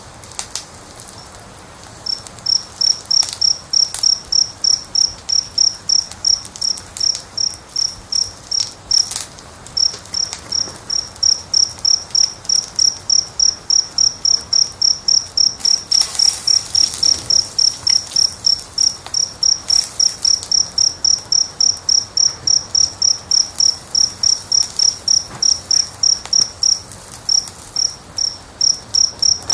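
An insect chirping in a steady, even rhythm, about three high chirps a second, starting about two seconds in. Beneath it a wood fire gives a faint hiss and occasional crackles.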